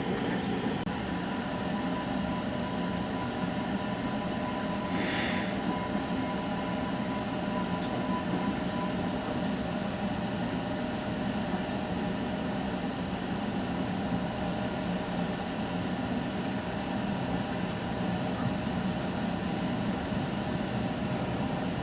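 West Coast Express diesel commuter train running along the track, heard from inside a passenger coach as a steady rumble. A thin steady whine sounds for the first eight seconds or so, and there is a brief hiss about five seconds in.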